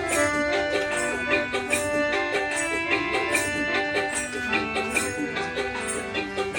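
Instrumental interlude of a Bengali Baul folk song: a stepping melody line over a steady beat of hand percussion and rattles.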